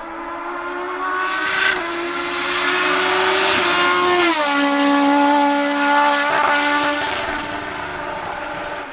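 Hillclimb race car engine held at high, steady revs as the car goes by at speed. Its note drops once in pitch about four seconds in, and it is loudest just after.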